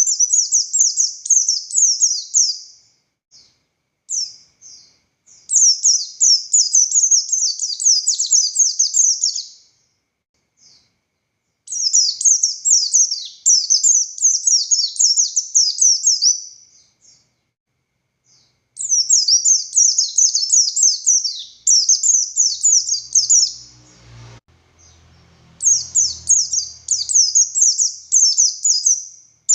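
Buxtoni white-eye (pleci) singing in long bouts of rapid, high, chattering notes: five bouts of about three to four seconds each, separated by short pauses.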